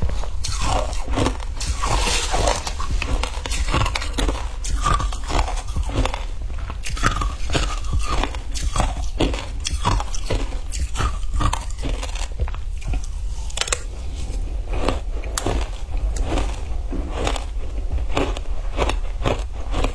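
Frozen ice being bitten and chewed close to the microphone: a steady run of crisp crunches, roughly one or two a second.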